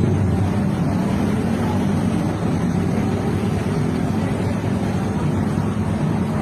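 Steady low rumble of a vehicle engine running amid street traffic.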